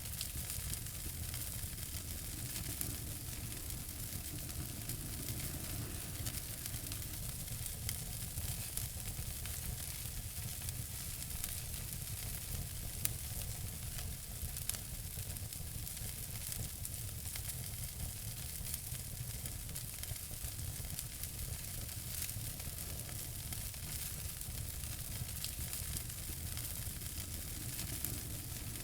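Wood fire in a fireplace crackling steadily, with many small snaps and two louder pops about midway.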